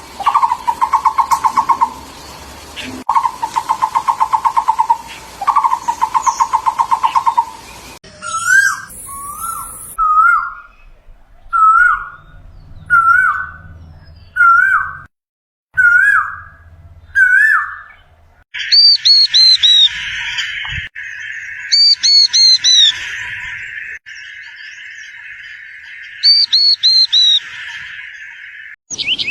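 Bird calls from three different clips in turn. First a rapid trill comes in bursts of about two seconds. Then a short slurred whistle repeats about once a second. Over the last ten seconds, loud ringing calls come in groups over a steady hiss.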